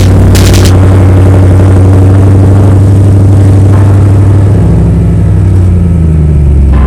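Audi RS5 with a loud aftermarket exhaust, idling with a deep, steady drone; about four and a half seconds in, the pitch shifts as the revs change slightly.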